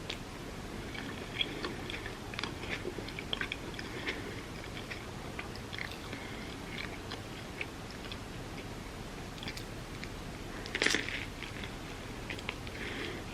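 Close-up chewing of loaded avocado toast on sourdough, with many small crunchy clicks from the toasted bread. There is one louder crunch near the end.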